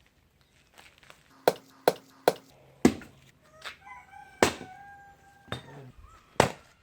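A rooster crowing once, held for about a second and a half, in the middle of a run of about six sharp knocks spread over the few seconds.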